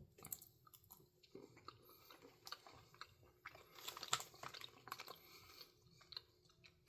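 Faint biting and chewing of a small square cookie coated in milk chocolate with an ube filling: a scatter of soft crunches, most of them around the middle.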